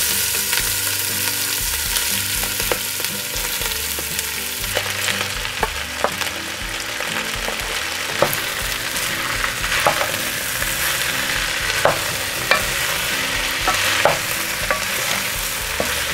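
Chopped chicharrón prensado sizzling as it goes into hot oil in a large pot, a steady frying hiss. From about five seconds in, a serving spoon knocks and scrapes against the bowl and pot with sharp clicks about once a second.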